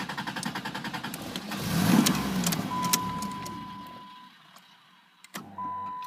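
Chrysler New Yorker's starter cranking the engine in a fast, even rhythm, then a brief louder surge about two seconds in that fades away: the engine fails to keep running. A steady high electronic tone sounds after the surge, broken off once and resumed after a click.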